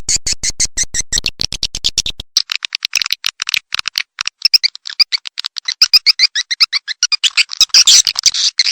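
Recorded swiftlet calls: a fast, dense chatter of sharp high chirps, many a second, played as a lure to draw edible-nest swiftlets to a nesting house. A lower, fuller layer under the chirps drops out about two seconds in.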